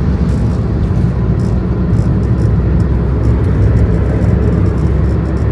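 Steady road noise and engine rumble inside a moving car's cabin.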